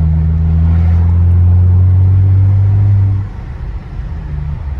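Straight-piped BMW F10's exhaust droning steadily under way, then falling off sharply in level a little over three seconds in and carrying on as a lower, unsteady rumble.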